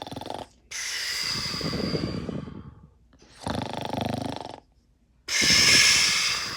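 Snoring: twice over, a short rattling in-breath followed by a longer hissing out-breath.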